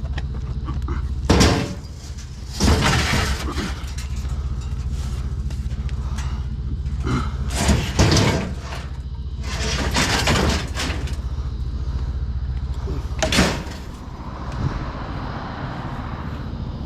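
Several loud bangs and clatters, about five in all, as scrap is lifted and dropped onto a truck, over the steady low rumble of the truck's engine running.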